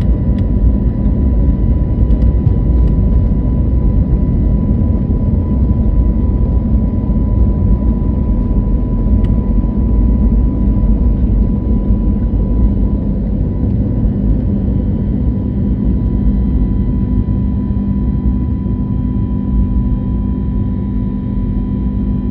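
Airbus A321neo cabin noise heard from a window seat: the jet engines running with a loud, steady low rumble and a steady whine, the rumble easing slightly toward the end.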